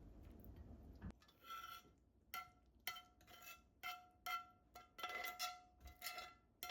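A kitchen utensil repeatedly clinking against a bowl or pot, about a dozen irregular strikes that each ring at the same pitch. A low steady rumble stops suddenly about a second in, just before the clinking starts.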